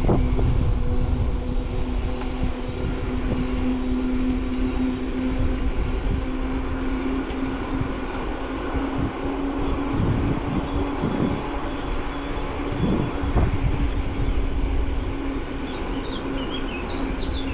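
Riding noise from an e-mountain bike: low rumble of tyres and wind on the microphone, with a steady motor hum underneath. A few faint high chirps come near the end.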